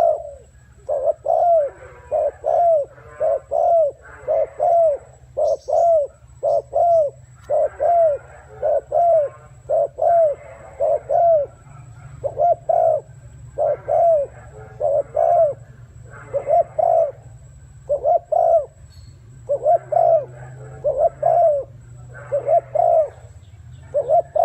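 Spotted dove giving its short 'gù' coos over and over, in quick runs of two to four notes. Each note rises and then falls in pitch. A faint steady low hum lies underneath.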